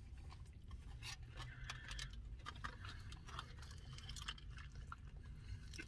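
Quiet chewing and crunching of a crispy fried birria taco: a scatter of small, irregular crunches and mouth clicks over a faint low hum.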